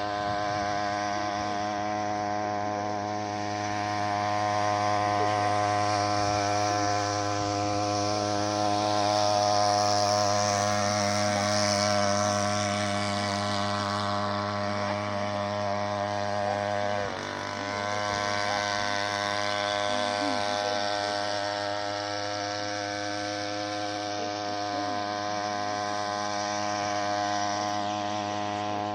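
Small 3 hp outboard boat motor running steadily under way, with a brief drop in engine speed about seventeen seconds in.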